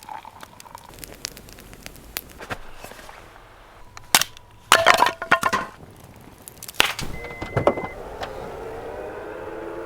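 A series of sharp knocks and clatters, loudest in a cluster about four to seven and a half seconds in, then a steady hum with a few held tones setting in near the end.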